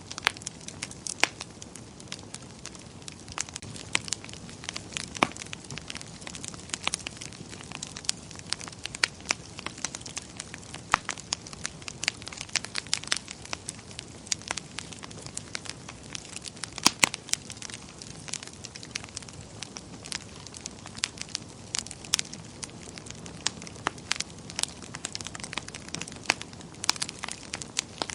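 Wood fire crackling in a fireplace: irregular sharp pops and snaps, a few of them louder, over a soft steady hiss of flame.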